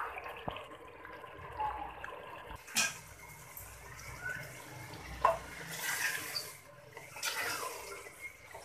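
Raw chicken pieces going into hot oil and fried onion-garlic paste in a pan, sizzling steadily. Two sharp splashes come as batches land, about three and five seconds in.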